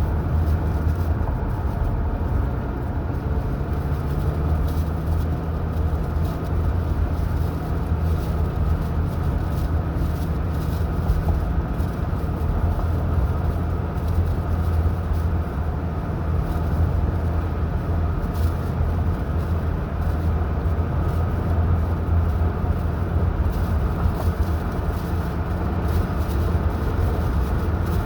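Car driving along at a steady pace: an even, low drone of engine and tyre noise with a constant hum, no changes in speed.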